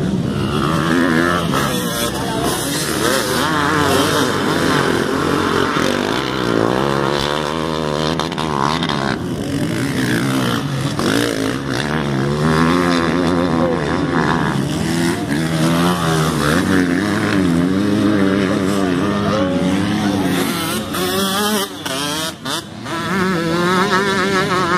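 Several motocross bikes running on a dirt track, their engines revving up and dropping back over and over as the riders work the throttle and shift, with more than one engine heard at once.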